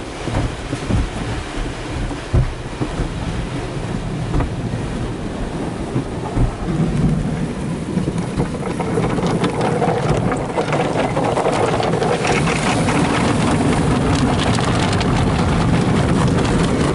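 Tunnel car wash equipment heard from inside the car: water spraying and cloth wash strips slapping and dragging over the body, with irregular thumps at first, then a steadier, louder noise about halfway through.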